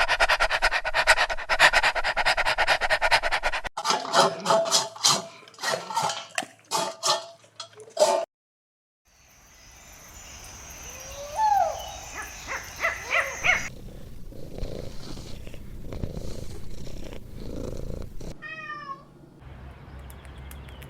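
Domestic cats calling in several short spliced clips: a fast pulsing call first, then a run of separate meows, then a single meow that rises and falls over a steady hiss.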